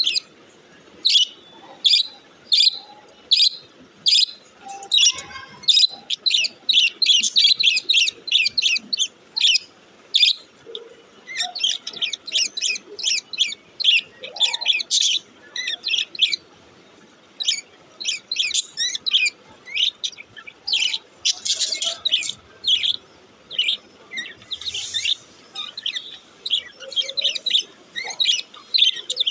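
Budgerigars chirping: a steady string of short, high chirps, a couple a second at first and coming thicker and faster a few seconds in.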